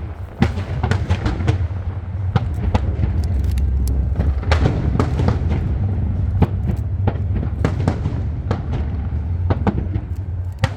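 Aerial fireworks going off in quick succession: many sharp bangs and crackles, several a second, over a continuous low rumble.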